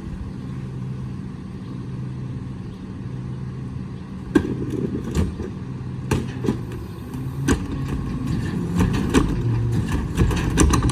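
Garbage truck engine running at idle, with a series of sharp clanks and knocks starting about four seconds in and growing busier and louder toward the end.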